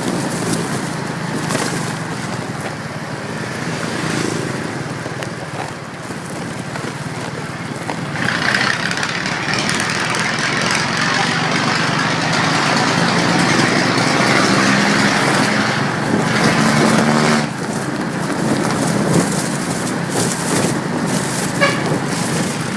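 Motorcycle ride road noise: the engine running under a steady rush of wind and traffic, growing louder and hissier for several seconds midway.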